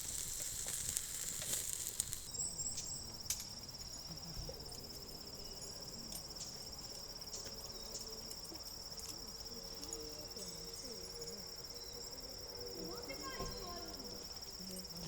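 An insect trilling steadily at a high pitch, starting about two seconds in, with a few light clicks and knocks scattered through.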